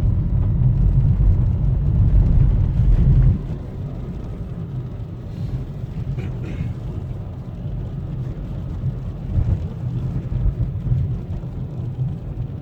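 A car driving on a snow-covered road, its engine and road rumble steady and deep. The rumble drops off sharply a little over three seconds in, then carries on more quietly.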